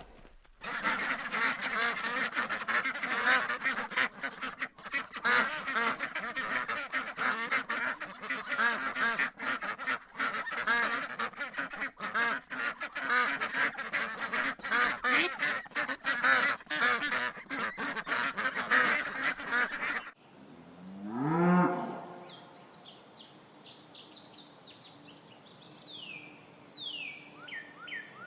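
A large flock of waterfowl calling all at once, a dense, continuous clamour of overlapping calls that cuts off suddenly about two-thirds of the way through. It is followed by a single call rising in pitch, then faint high chirping of small birds near the end.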